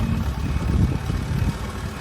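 Diesel engine of heavy construction machinery running, a low, pulsing engine sound that eases off slightly near the end.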